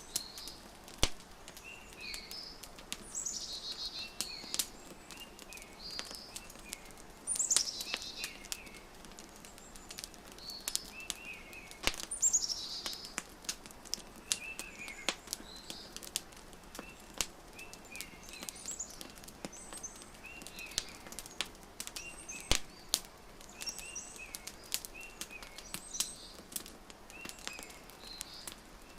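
Wood fire crackling with sharp, irregular pops, while small birds chirp over it: short chirps repeating about once a second, and a few louder descending calls.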